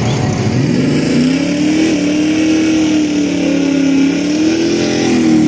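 Car engine at high revs: its pitch climbs about a second in, holds with a slight waver, and rises again near the end.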